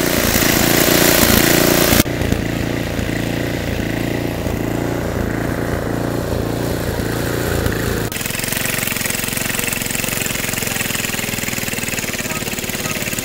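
Small engine running steadily with a regular low pulsing. Its sound changes abruptly about two seconds in and again about eight seconds in.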